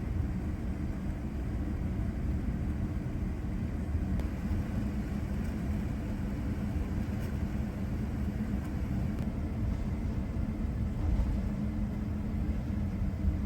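Boeing 787-10 cabin noise while taxiing to the runway: a steady low rumble with a faint steady hum.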